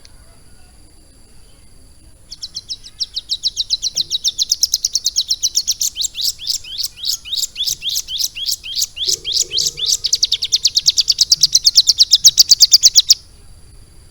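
Ciblek gunung songbird singing one long, fast trill of evenly repeated high notes, about six a second. It starts about two seconds in, grows louder, and stops abruptly near the end.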